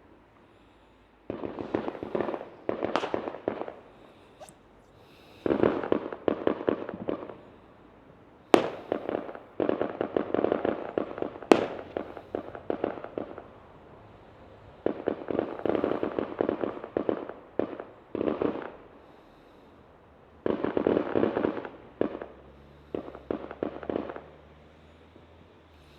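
Fireworks going off in repeated volleys of rapid crackling pops, each volley lasting a second or a few seconds with short lulls between, and two sharp single bangs partway through.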